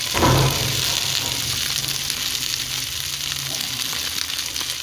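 Diced potatoes, onion, tomato and green chillies frying in ghee in a frying pan, sizzling steadily. The sizzle surges about a quarter second in as the green chillies go into the hot pan, then settles back.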